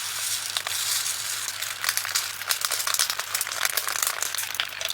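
Resin diamond painting drills pouring from a plastic bag into a small storage container: a dense patter of tiny clicks, with the bag crinkling.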